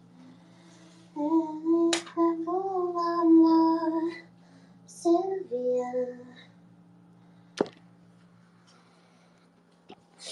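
A woman's voice singing a short wordless tune in two phrases of held notes, with a couple of sharp clicks and a faint steady low hum underneath.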